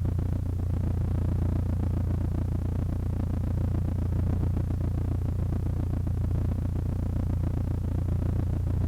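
Cessna 152's four-cylinder Lycoming O-235 engine idling steadily, a low even drone with a fast fine pulsing, heard from inside the cabin.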